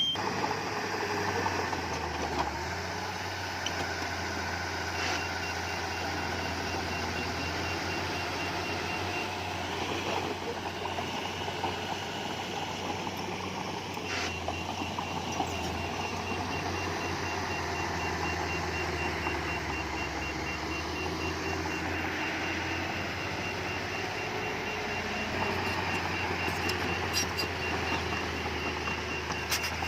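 Diesel engine of heavy earthmoving equipment running steadily, with a high reversing alarm beeping in a quick even series; the beeping starts about five seconds in, stops for a few seconds, and starts again near the middle.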